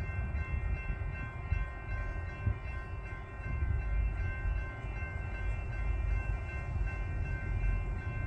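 Railroad grade-crossing warning bell ringing steadily with the gates down, over a low rumble.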